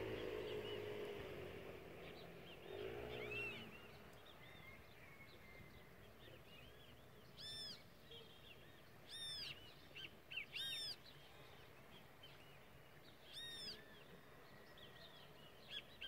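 Small birds chirping in short, high, arched notes, four louder ones spaced a second or two apart in the second half, over quiet outdoor background. A low hum fades away over the first few seconds.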